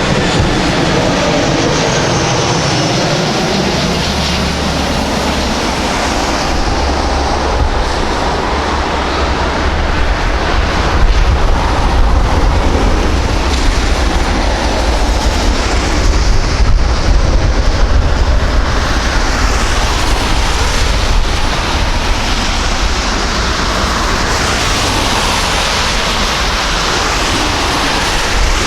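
Jet airliner engines running loud and close, with a deep rumble and a dense rush of noise that swells through the middle and eases again, slow pitch glides showing as it moves.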